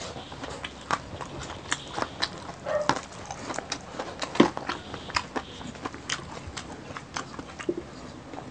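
Close-miked eating sounds: chewing and crunching of crispy deep-fried pork knuckle skin, a quick, uneven run of sharp crackles and clicks.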